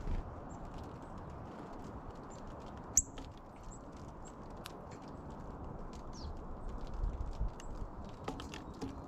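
Small birds making short, faint chirps and ticks over a steady low outdoor background hiss, with one sharp click about three seconds in.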